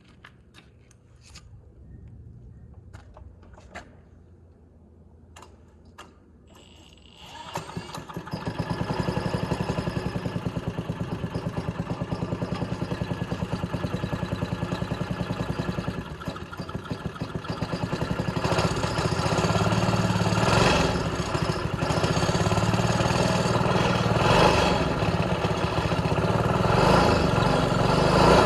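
A rebuilt 3 hp Briggs & Stratton single-cylinder small engine starting for the first time after its rebuild. After a few faint clicks it catches about seven seconds in and runs with a fast, even firing beat, then picks up and runs louder from about eighteen seconds.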